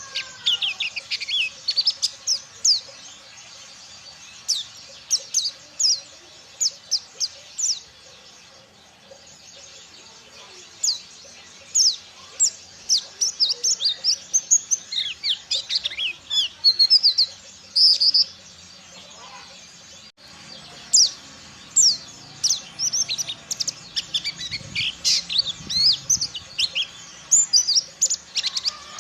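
Mountain white-eye (pleci dakun) singing: runs of rapid, high, quick chirps and twittering phrases lasting several seconds, broken by short pauses about a third and two thirds of the way through.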